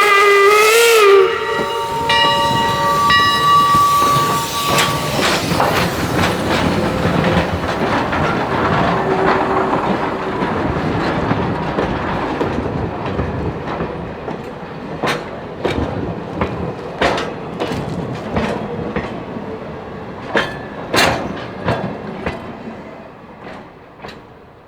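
Steam whistle of a 4-4-0 steam locomotive sounding a chord that wavers in pitch and cuts off about a second in. Then the train rolls by with its wheels clicking over rail joints, fading away toward the end.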